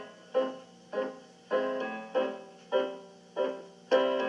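Piano playing an instrumental passage of chords, struck about every 0.6 s, each ringing and fading before the next.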